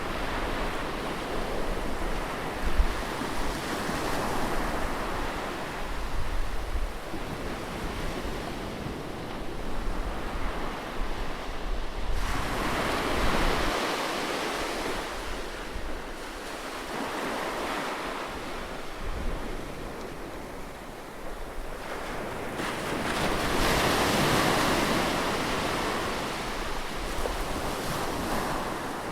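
Ocean surf breaking and washing up a beach, the rush swelling and fading as each wave comes in, with two larger surges about twelve and twenty-three seconds in. Wind buffets the microphone now and then.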